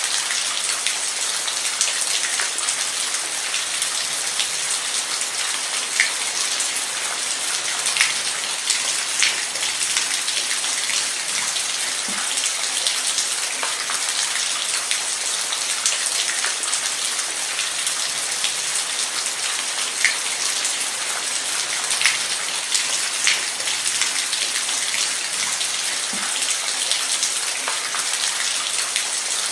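Steady rainfall, an even hiss with scattered sharper drops hitting a surface.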